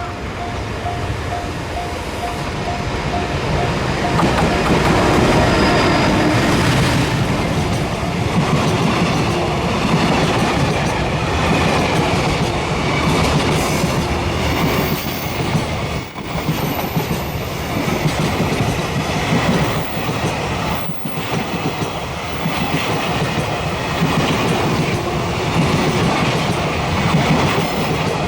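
Train running past at close range: a loud, continuous rumble of wheels on rails that builds about four seconds in and holds. A short tone repeats evenly over the first few seconds.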